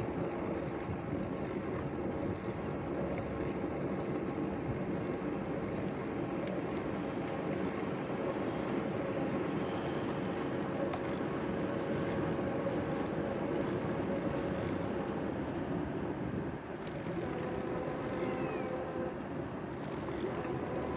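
Steady rolling noise of a bicycle riding along a paved path, with a constant hum running under it.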